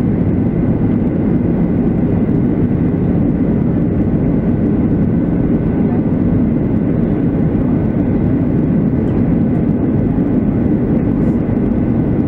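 Steady cabin noise of a Boeing 737-700 in flight: an even, low rush of engine and airflow noise with faint steady whining tones above it.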